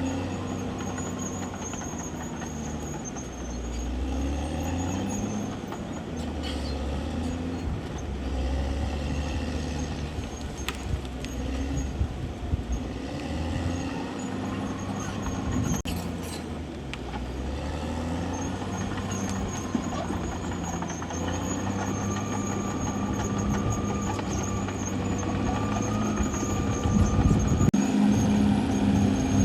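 Caterpillar D6R XL crawler bulldozer's diesel engine running under shifting load as it works, with a thin high tone that comes and goes. The engine grows louder near the end.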